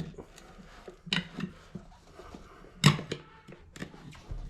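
Tire irons clinking and clanking against a Honda Grom motorcycle wheel rim while prying a tubeless tire's bead over the rim edge. There are a few separate sharp knocks, the loudest about three seconds in.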